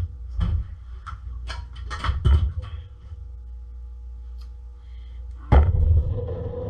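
Several sharp knocks of cookware being handled in a kitchen, then about five and a half seconds in a loud knock followed by a steady low rumble with a hum that keeps going.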